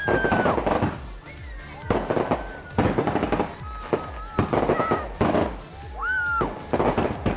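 Firework shells bursting in quick succession, about one loud bang a second, with crackle between them.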